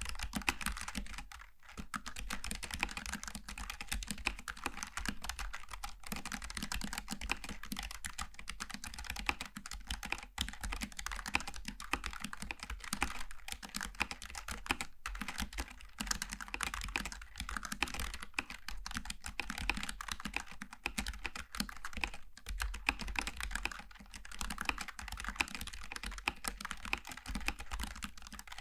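Steady fast typing on a Logitech G915 TKL low-profile mechanical keyboard with GL Tactile switches: a dense stream of key clacks, broken by a short pause about a second and a half in.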